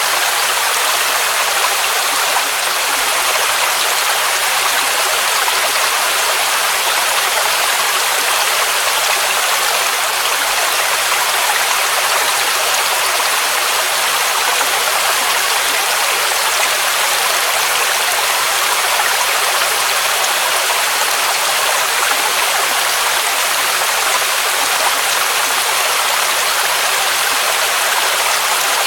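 Mountain waterfall rushing: a loud, steady, unbroken rush of falling water, bright and hissy with little low rumble.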